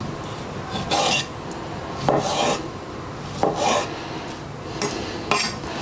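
Knife slicing through raw chicken breast on a chopping board, with about five separate strokes a second or so apart.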